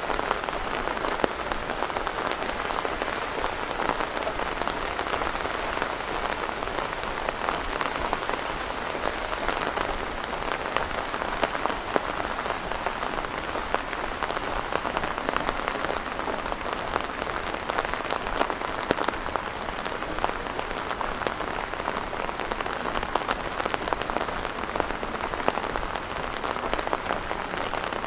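Steady rain falling, heard as an even hiss thick with small, quick drop ticks.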